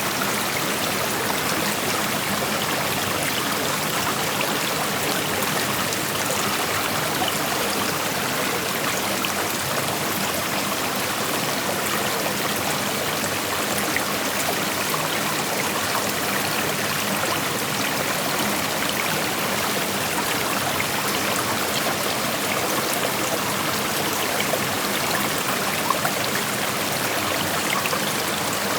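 Creek water flowing and rushing steadily over rocks, an even wash of noise with small trickles and splashes in it.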